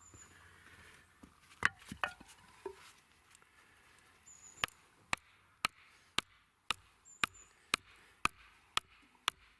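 Wood being hammered: a few uneven knocks about two seconds in, then a steady run of sharp strikes, about two a second.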